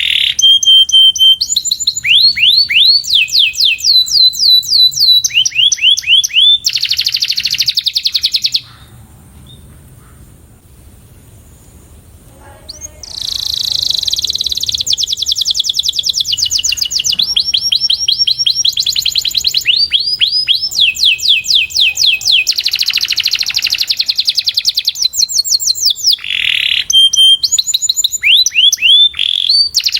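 Canary singing in fast rolled trills, runs of rapid repeated swooping notes and buzzy rolls. It breaks off for about four seconds near a third of the way through, then resumes.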